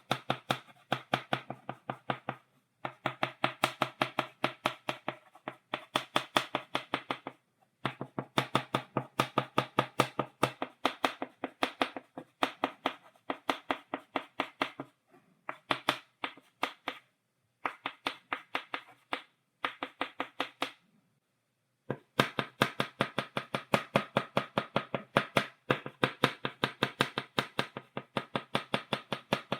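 Chalk tapping on a blackboard, dotting out a stippled drawing: runs of quick, sharp taps about four or five a second, broken by short pauses and one longer stop about two-thirds of the way in.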